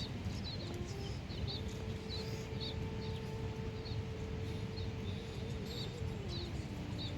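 Small birds chirping: short, quick, high chirps repeated irregularly, several a second, over a low rumble. A faint steady hum drops in pitch near the end.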